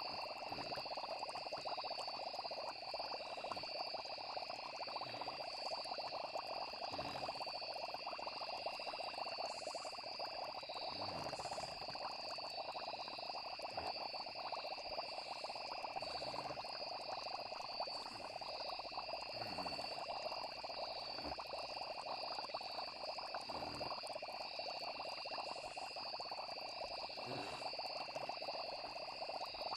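A night chorus of frogs croaking densely, with insects trilling steadily and unbroken at a high pitch.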